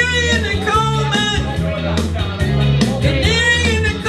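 Upbeat rock song with a sung lead vocal over bass, guitar and drums with a steady hi-hat beat; the singer holds lines in two phrases, near the start and about three seconds in.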